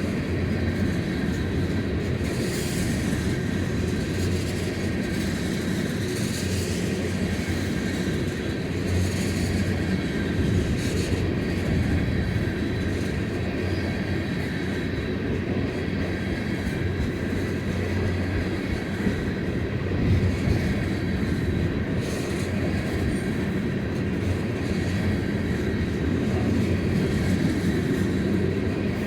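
Long freight train of empty boxcars and tank cars rolling past on the rails: a steady rumble of wheels, with a faint thin wheel squeal above it.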